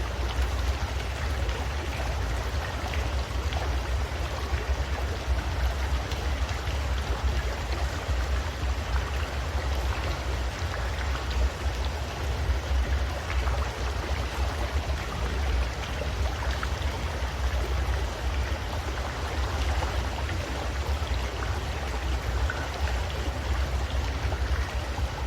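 River water flowing steadily, a continuous rushing with a deep rumble underneath.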